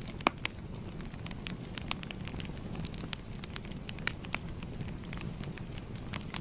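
Fire crackling: irregular pops and snaps over a steady low rumble of flames.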